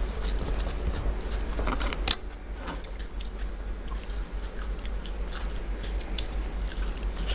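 Close-miked chewing and biting of people eating khichuri by hand, with small clicks and squelches of fingers mixing the rice on steel plates and one sharper click about two seconds in, over a steady low hum.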